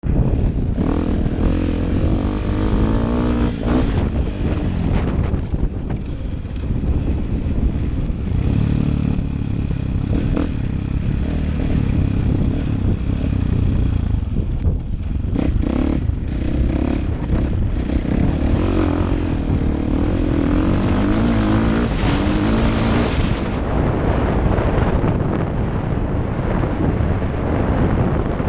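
KTM 450 SX-F motocross bike's single-cylinder four-stroke engine being ridden hard, its pitch repeatedly rising and falling as the throttle is opened and closed, over a constant low rumble.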